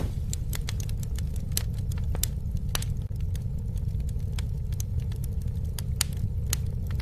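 Campfire burning: a steady low rumble of the flames with frequent sharp, irregular crackles and pops of the burning wood.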